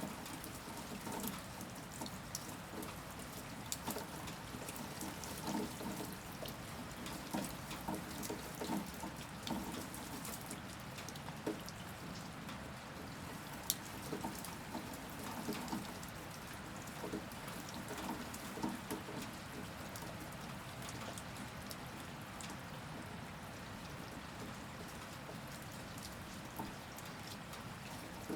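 Steady rain, with a patter of individual drops and drips striking a surface. One sharp, louder tap comes about halfway through.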